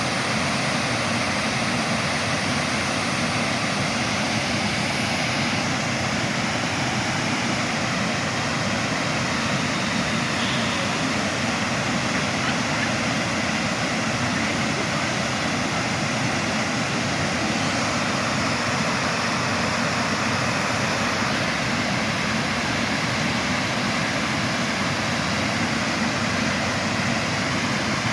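Waterfall: a loud, steady rush of falling water that never lets up.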